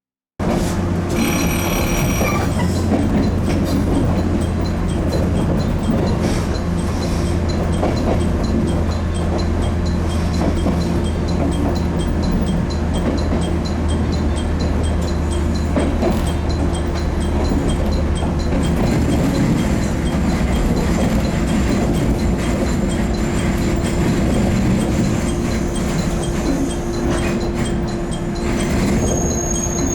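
Bantan Line train running at a steady pace with a continuous rumble and a steady hum, cutting in abruptly after a moment of silence. A brief high ringing comes about a second in, and the lower part of the hum drops away about two-thirds of the way through.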